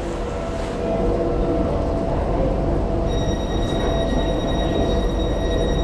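Tyne and Wear Metro train running on the rails, heard from on board: a steady rumble with a constant hum. About three seconds in, a higher steady whine of several tones joins in and holds.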